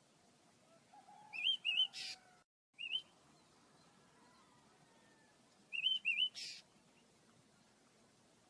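Pet birds chirping: two short bursts about four seconds apart, each a quick run of curling, rising-and-falling notes ending in a brief harsh rasp.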